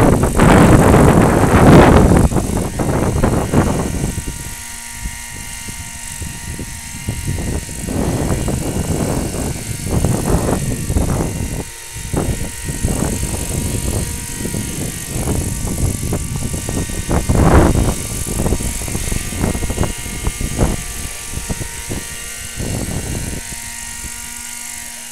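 Engine of a radio-control model airplane droning steadily in flight, with heavy wind buffeting on the microphone, loudest in the first few seconds and again about two-thirds of the way through.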